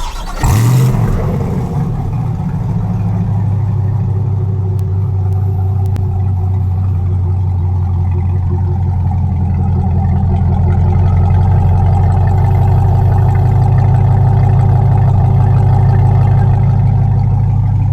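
Corvette C8 V8 with a Borla aftermarket exhaust, firing up about half a second in with a short rev flare, then settling into a steady, deep idle.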